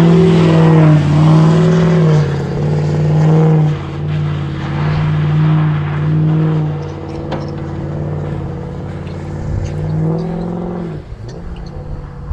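Diesel pickup engine pulling under load while towing another truck, a steady drone that swells and dips every second or two and eases off near the end.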